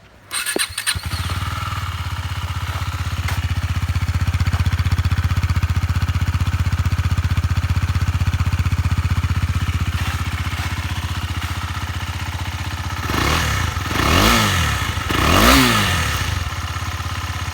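KTM Duke 250's single-cylinder engine, running with only the exhaust bend pipe and no silencer: it starts, idles steadily and loud, then is revved three times near the end.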